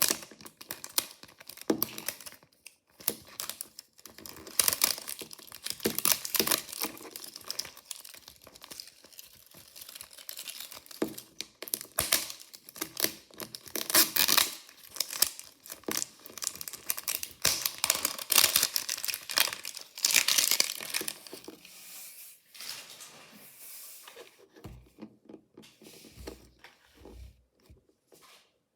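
Mystery-toy packaging torn open and crinkled by hand: several spells of louder ripping with crinkling and rustling between them, settling into quieter handling in the last few seconds.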